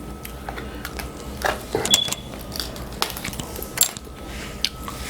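King crab shell being cracked and picked apart while eating, with scattered sharp cracks and crunches; the sharpest comes about two seconds in.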